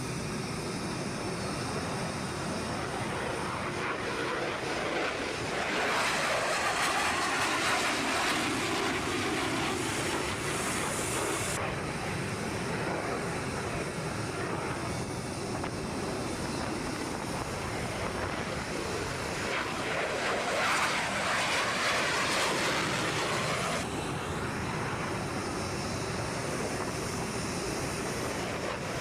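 Aircraft engine noise: a steady rushing sound that swells louder twice and changes abruptly about twelve and twenty-four seconds in.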